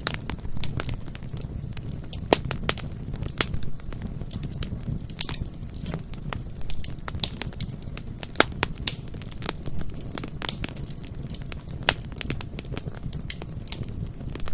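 Bonfire crackling: irregular sharp pops and snaps, some much louder than others, over a steady low rumble.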